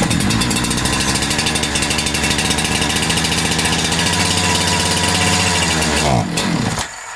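Holzfforma G372XP chainsaw's two-stroke engine running steadily at a fast speed for about six seconds, then slowing and stalling near the end instead of settling to idle. It will not idle, which the owner puts down to running lean, a fuel-related problem, likely in the carburetor.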